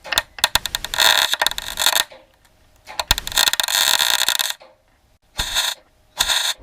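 Welder laying short stitch welds on a sheet-metal repair patch, in abrupt crackling bursts: two of about one and a half to two seconds, then two brief ones near the end.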